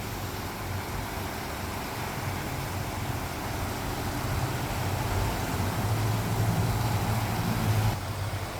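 Steady low rumble and hiss of outdoor background noise, rising a little in loudness past the middle and easing near the end.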